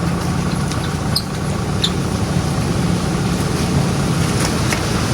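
Heavy truck's diesel engine running at a steady idle, with a few faint light clicks over it.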